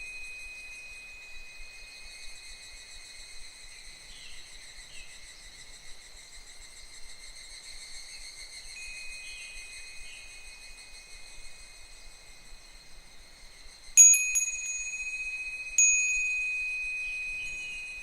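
Japanese wind chime (fūrin) ringing with clear, lingering high tones, struck sharply twice near the end, about two seconds apart, each strike ringing out slowly. Higurashi cicadas call faintly behind it.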